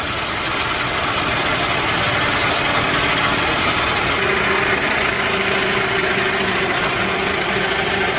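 Heavy vehicle engine running steadily, getting louder in the first second, with a faint steady hum coming in about halfway through.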